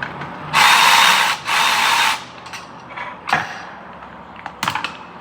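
A power tool runs in two short bursts, about a second and then half a second, with a hissing, unpitched sound, as nuts are run down on a mounting. A few sharp clicks and knocks of tools on metal follow.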